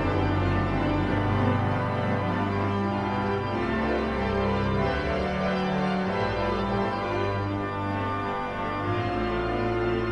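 Organ music with sustained chords over long, held bass notes.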